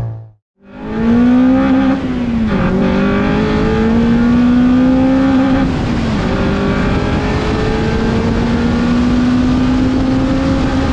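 Honda Civic Type R EP3's 2.0-litre four-cylinder VTEC engine accelerating hard after a brief silence at the start. Its note climbs in pitch, drops sharply at an upshift about two and a half seconds in and at another about six seconds in, and climbs again each time.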